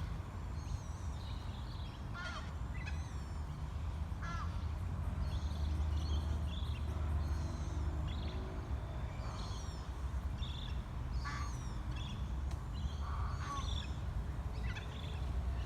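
Birds calling repeatedly, in short, high, falling calls, some sharp, over a low steady rumble.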